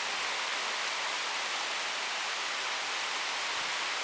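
Steady hiss of thunderstorm rain falling.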